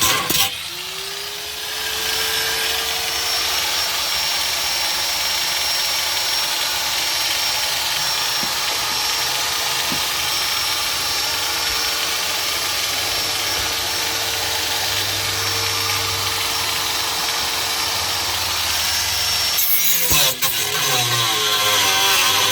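Electric power tool, most likely an angle grinder, spinning up about half a second in and then grinding steadily on sheet metal with a constant motor whine. It stops a little before the end.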